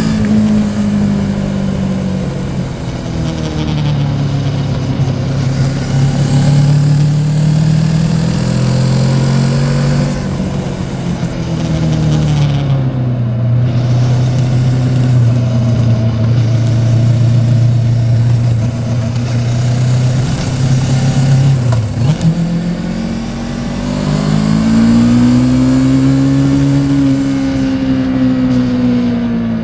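Yamaha Tracer 700's parallel-twin engine pulling the motorcycle along, its note rising and falling repeatedly as the throttle is opened and closed, with a longer steady stretch in the middle and a brief dip a little past two-thirds of the way through.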